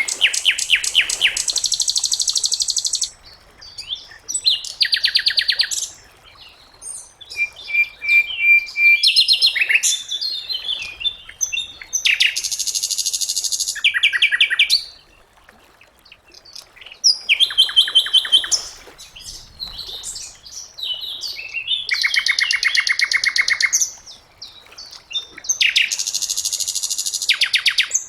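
Sikatan londo flycatcher singing: loud phrases of fast, high, rapidly repeated notes, each lasting a second or two, with short pauses between phrases.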